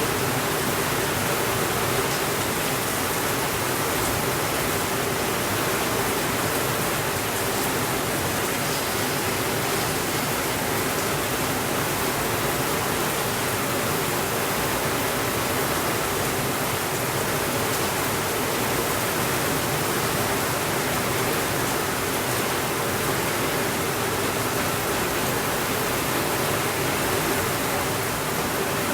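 Heavy rain falling on a window, a steady, even hiss with no thunder.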